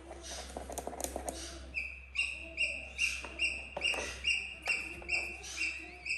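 Baby eagle calling: a run of about a dozen short, high, piping peeps, roughly two and a half a second, beginning about two seconds in. Before that comes a short stretch of rustling with a few clicks.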